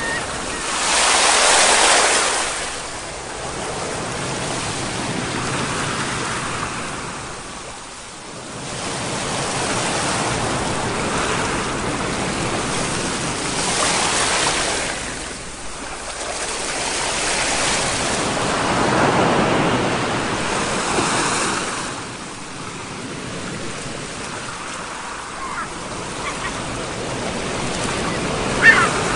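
Sea waves washing in and breaking, the surf swelling and falling away every few seconds, with a brief sharp high sound near the end.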